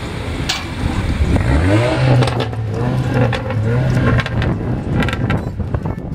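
Performance cars pulling away one after another; one engine's note rises about a second and a half in, then holds steady as the car accelerates past, over wind noise on the microphone.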